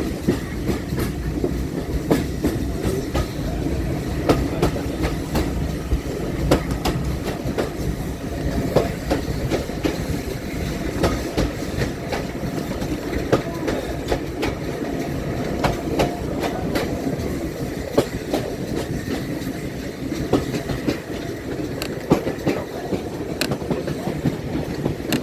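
A railway train running on the rails: a steady low rumble with frequent irregular clicks and knocks of wheels over the track.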